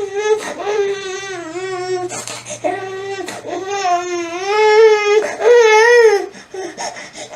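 A man crying: a string of drawn-out, high-pitched wailing sobs whose pitch wavers and dips, about five cries with short breaks for breath between them.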